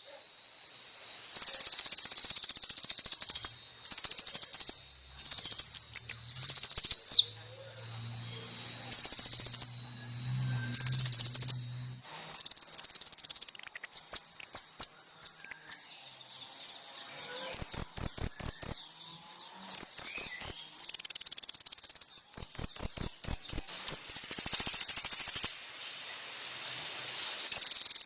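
High-pitched bird song: rapid, buzzy trills and chirp series delivered in phrases about a second long, with short pauses between them. This is the song of the konin (kolibri ninja), played as a masteran song recording.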